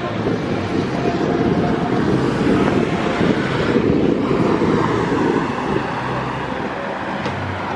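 Street traffic noise: a vehicle passing by, a low rushing that swells in the middle and eases off toward the end.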